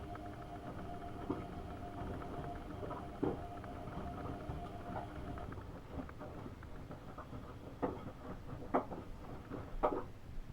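AEG Öko-Lavamat 72520 front-loading washing machine mid-wash: the drum motor whines steadily for about five seconds, then stops, leaving irregular knocks and splashes of wet laundry and water in the drum.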